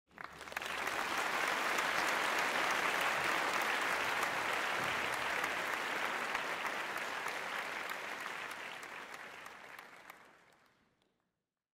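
Crowd applauding: dense clapping that starts suddenly, holds steady, then fades away over the last couple of seconds.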